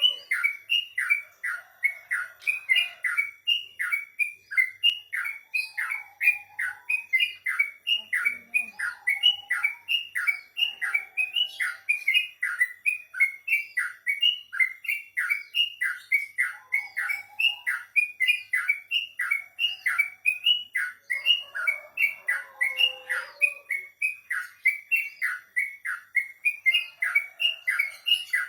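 Crocokan bird in full, vigorous song ('gacor'): a rapid, unbroken string of short notes, each sliding downward in pitch, about two to three a second.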